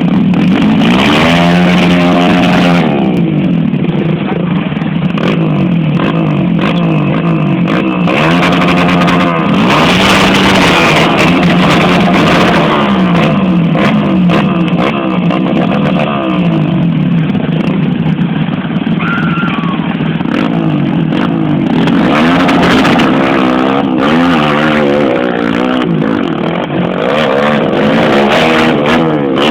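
Motocross dirt bike engines revving hard, their pitch climbing and dropping again and again as the bikes accelerate and shift gears.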